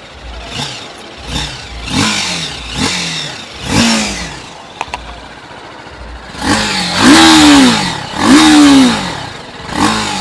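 TVS Apache RTR 310's 312 cc single-cylinder engine revved in a series of throttle blips, each rising and falling in pitch. Short blips come about once a second at first, then two longer, louder revs in the second half. Two sharp ticks come about five seconds in.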